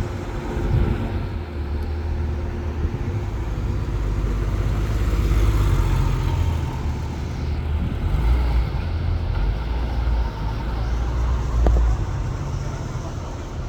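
Car engines and tyres in street traffic, a low rumble that swells several times as vehicles drive past.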